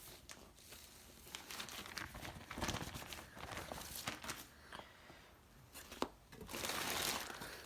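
Packaging being handled: irregular crinkling and rustling with a few small knocks, growing louder for about a second near the end.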